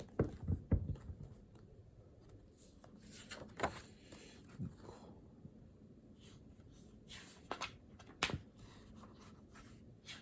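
Pen writing on paper at a desk: scattered short scratching strokes, with a few soft knocks in the first second.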